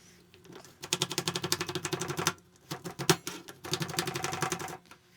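Knife rapidly slicing an onion thin on a cutting board: two runs of quick, even chopping strokes with a short pause between them.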